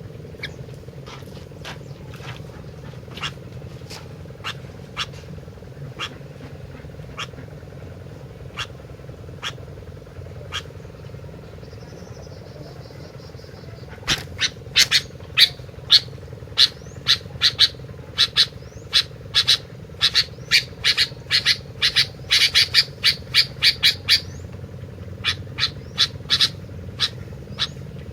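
Kutilang (sooty-headed bulbul) giving short, sharp chip calls over a steady low hum. The calls are spaced a second or so apart at first, then come in a fast excited run about halfway through before thinning out again.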